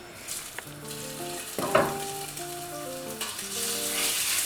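Food sizzling in hot oil in a wok while it is stirred, the sizzle growing louder and fuller past the middle. A single sharp knock sounds a little under two seconds in.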